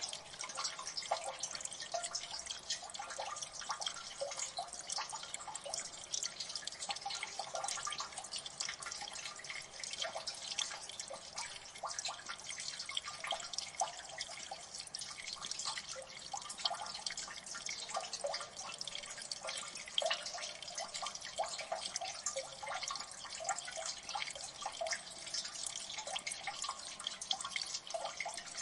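Water dripping in a gully: many irregular drops falling thick and fast, at a steady rate throughout, over a faint wash of water.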